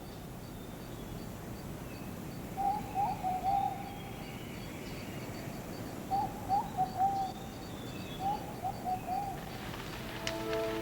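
Rain forest ambience with a bird giving three short warbling call phrases a few seconds apart, over a faint high ticking about three times a second. Music with held tones comes in near the end.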